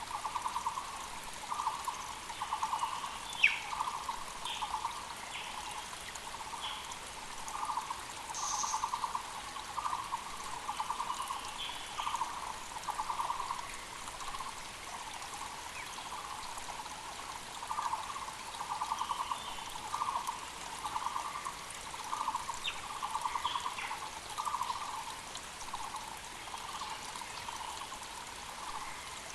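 Taiwan (Muller's) barbets calling over and over, a long chain of short, fast-pulsed hollow notes in groups about a second long. Other small forest birds give brief higher chirps over the faint hiss of a mountain creek. A single sharp click sounds about three and a half seconds in.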